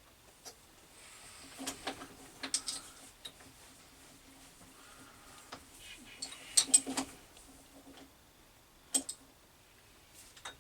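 Light metallic clicks and clinks, typical of tools and metal parts being handled at a metal lathe. The busiest cluster comes about six and a half seconds in, over a faint steady hum that runs from about one to eight seconds in.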